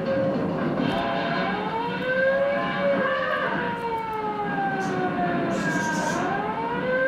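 Several wailing sirens, their pitches gliding slowly up and down over one another, cutting off suddenly at the end.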